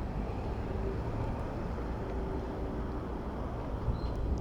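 Steady rumble of city road traffic and wind on the microphone of a moving bicycle, with a faint engine hum in the first half.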